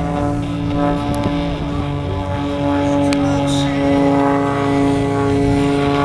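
Propeller airplane engine running steadily, with a clear, even pitch.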